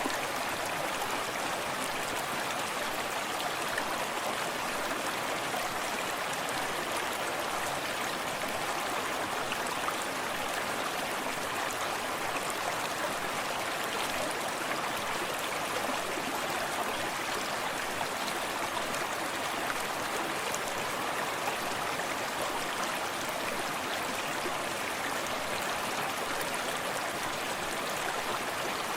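Small forest stream running steadily, water splashing and trickling over stones, with no change in level.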